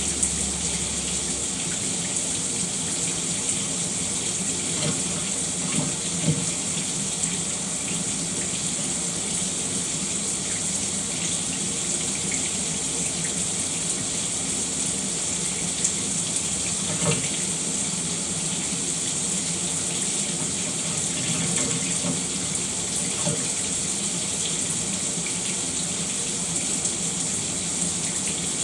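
Shower running steadily: an even hiss of falling water with a few small spatters and splashes.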